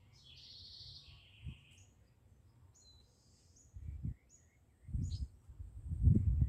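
Birds calling: a harsh, scratchy call near the start that drops to a lower pitch, then a few faint short chirps. In the second half a low rumble of noise on the microphone grows and becomes the loudest sound.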